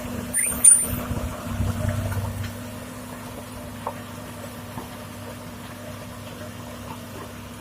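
Heavy diesel engine running steadily with a low, even hum. In the first two seconds or so a burst of knocks and clatter rides over it, the sharpest just under a second in, then only the engine remains.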